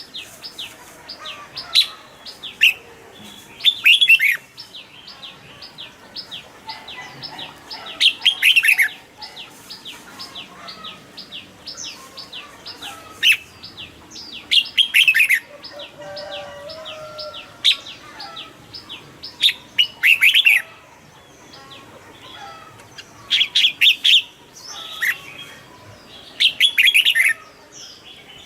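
Red-whiskered bulbul singing: short loud phrases of quick, falling whistled notes every few seconds, with a steady run of short high ticks between the phrases.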